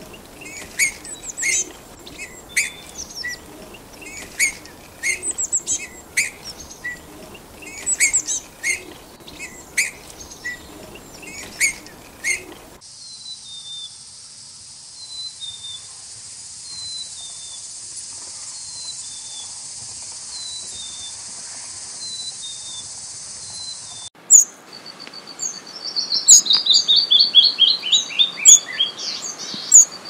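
Songbird calls in three short recordings. First, repeated sharp calls. Then faint short high notes about once a second over a steady high hiss. Last, loud fast trills of notes falling in pitch.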